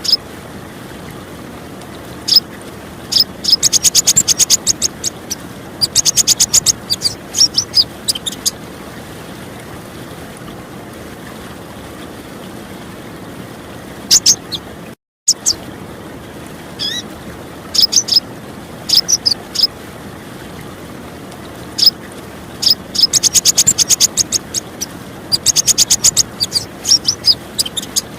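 A female sunbird's sharp, high chip calls, some single and some in fast rattling runs, over the steady rush of clear running water. The sound cuts out completely for a moment about halfway through.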